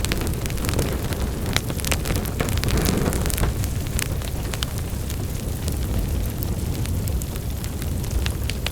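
Wood fire burning in a fireplace: a steady low rumble of flames with irregular sharp crackles and pops, more of them in the first few seconds.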